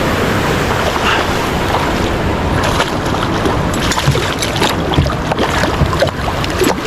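Steady rushing of flowing creek water, with scattered short clicks.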